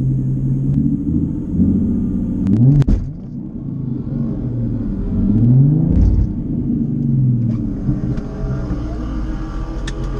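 A car engine revving up and falling back several times, its pitch rising in glides, with sharp cracks about three and six seconds in.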